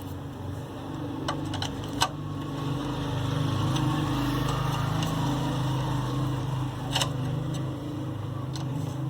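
A steady low engine-like hum runs throughout, with a few sharp metallic clicks of hand tools on the generator's tappet cover bolts as they are tightened.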